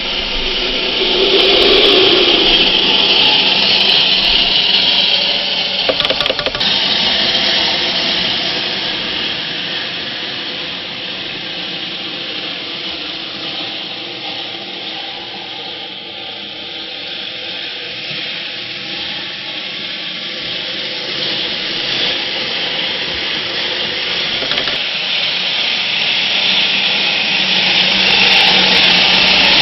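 Steady whirring of a radio-controlled truck's motor and drivetrain, swelling in the first few seconds, easing toward the middle and building again near the end.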